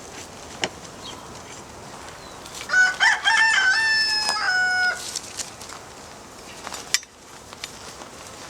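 A rooster crows once, starting about three seconds in: a cock-a-doodle-doo of a few short notes ending in a long held note. A few sharp clicks and knocks sound before and after it.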